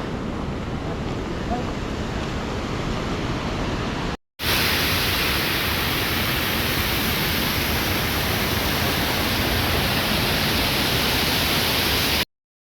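Waterfall's steady rushing roar. After a short cut about four seconds in it comes back louder and brighter, then cuts off suddenly near the end.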